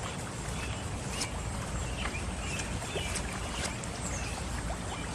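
Steady rushing of rainwater runoff after heavy rain, with a low rumble underneath and a few faint, short high ticks.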